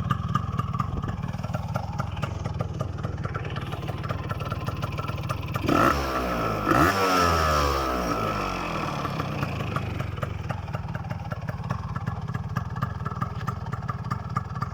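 Kawasaki GTO110's two-stroke single-cylinder engine idling through an aftermarket silencer, with a quick, even popping beat. The idle is set slightly high. Near the middle the throttle is blipped twice, the revs jumping up and then sinking back to idle over a couple of seconds.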